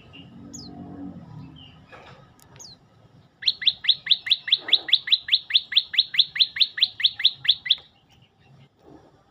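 Prenjak lumut singing: a fast, loud trill of about twenty identical sharp notes, some five a second, starting about three seconds in and lasting around four seconds. A few faint single chirps come before it.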